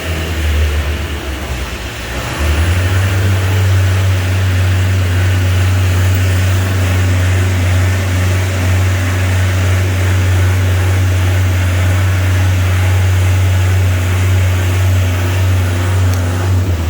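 Engine of a JLG boom lift running steadily as the platform is raised, a loud low drone. It eases off briefly, then comes back louder about two seconds in and holds there.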